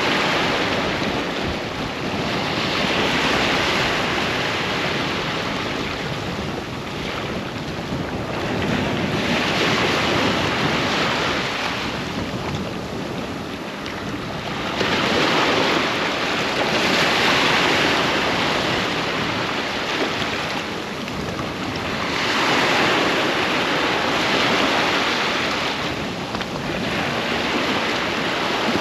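Ocean waves breaking and washing up a beach, the surf swelling and easing in slow surges every several seconds.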